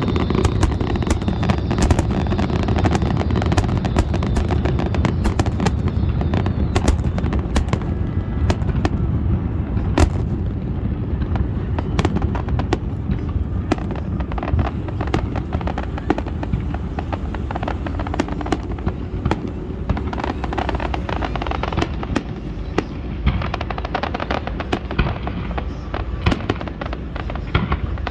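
Fireworks display: a continuous low rumble of bursting shells with many sharp pops and crackles, thickest in the first half.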